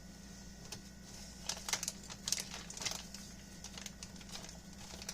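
Light clicks and crinkles of handling food as pieces of rotisserie chicken are taken, most of them bunched between about one and a half and three seconds in, over a faint steady hum.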